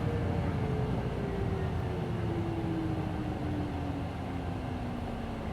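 Inside a Hino Blue Ribbon City Hybrid bus, its drivetrain running with a whine that falls steadily in pitch over a low rumble as the bus slows.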